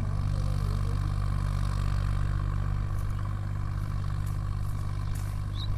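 Sonalika 50 hp 4x4 tractor's diesel engine running steadily.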